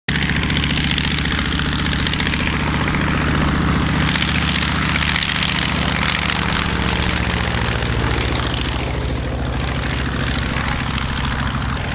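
Piper Arrow's piston engine and propeller running steadily at cruise-like power, cutting in suddenly at the start.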